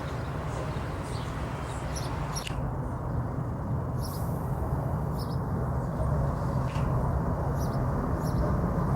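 Birds chirping, with short high notes every second or so, over a steady low rumble.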